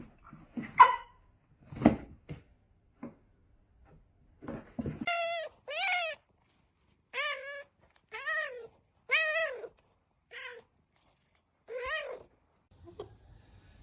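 A domestic cat meowing repeatedly, about eight drawn-out meows in a row, after a few scattered knocks and rustles.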